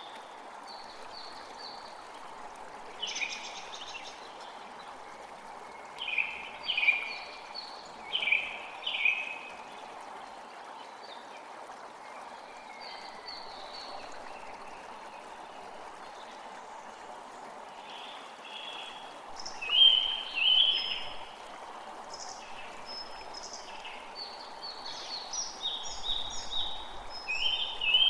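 Steady rush of a flowing stream, with songbirds calling over it in repeated short phrases that grow busier and louder about twenty seconds in and again near the end.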